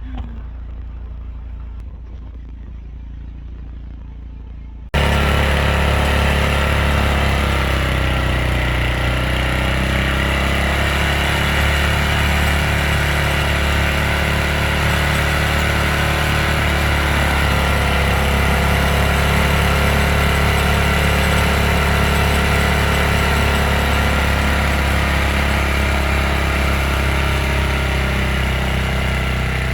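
Snowblower engine running steadily and loudly close by, cutting in suddenly about five seconds in after a quieter engine hum, its pitch sagging briefly a few seconds later as if under load.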